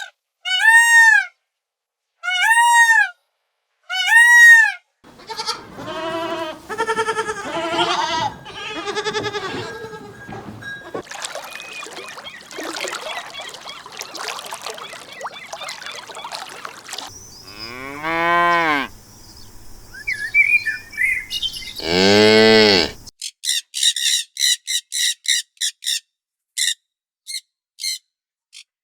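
Farm animals calling one after another in short separate recordings. Cattle mooing is among them, with a long low moo about three quarters of the way through.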